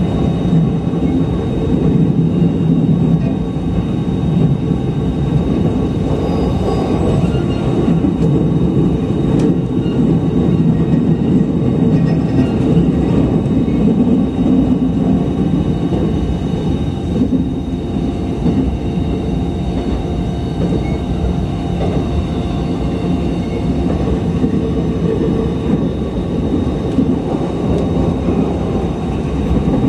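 Running noise of a JR East E129 series electric train, heard from inside the carriage: a steady rumble of wheels on the rails, with a few faint steady high tones above it.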